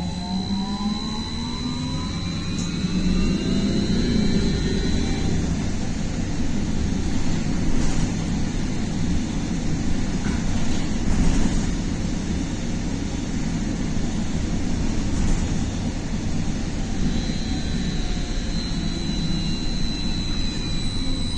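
Inside a BKM-43300D trolleybus, its electric traction drive whines and rises in pitch as it accelerates over the first few seconds, with a high steady tone alongside. Steady rumbling running noise follows. Near the end the high tone comes back and the whine falls in pitch as the trolleybus slows.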